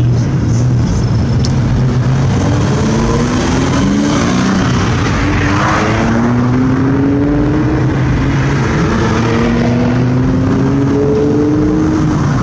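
Car engines running: one steady low idle underneath while other cars accelerate away, their engine pitch climbing several times in a row.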